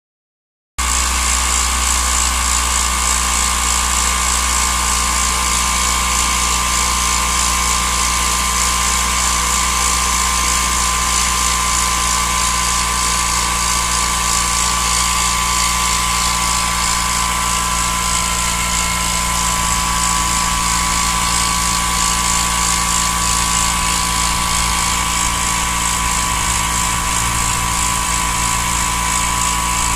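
Subaru Vivio RX-R's small four-cylinder engine running steadily, with a steady high whine on top, the abnormal noise the owner traces to the alternator area. It comes in about a second in.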